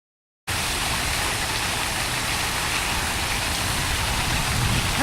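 A steady rushing noise, even and without any tone or rhythm, that starts abruptly about half a second in and cuts off just as suddenly at the end.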